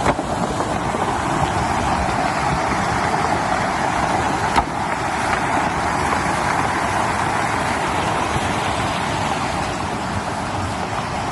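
Steady rushing of a fast-flowing river swollen after rain, with a single sharp knock about four and a half seconds in.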